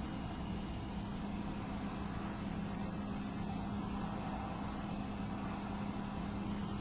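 Steady room hiss and a low hum picked up by a camcorder with nothing happening, with the thin high-pitched whine of the camera's own hard drive, which shifts in pitch about a second in.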